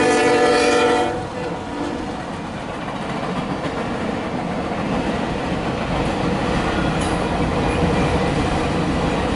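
A diesel locomotive's air horn sounding and cutting off about a second in, then a string of empty autorack freight cars rolling past close by with a steady rumble and the clickety-clack of wheels over rail joints.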